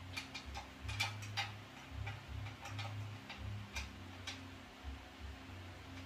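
Irregular light clicks and soft knocks from cat tree parts and hardware being handled during assembly, about a dozen in the first four seconds, thinning out near the end. A faint steady low hum lies underneath.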